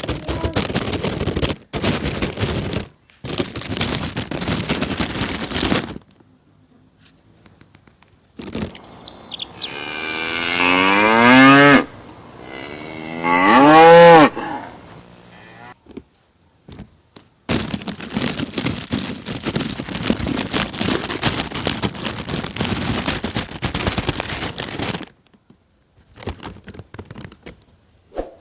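A cow mooing: two long, drawn-out moos one after the other, about ten seconds in. Before and after them come stretches of loud, even hissing noise with short breaks.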